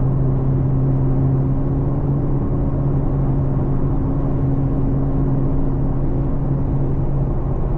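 Infiniti Q50 heard from inside the cabin at a steady cruise: an even, unchanging exhaust drone over road and wind noise.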